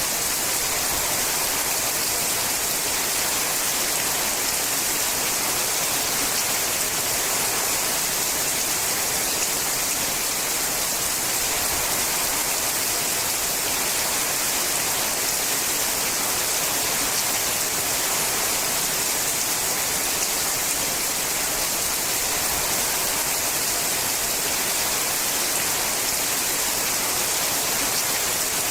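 Steady, heavy rain falling on a sheet-metal roof, an even hiss with fine drop ticks and no let-up.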